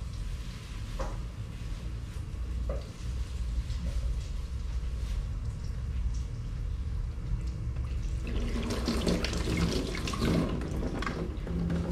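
Washing dishes at a kitchen sink: scattered clinks of dishware over a steady low hum, then from about eight seconds in the tap running onto the dishes with louder splashing.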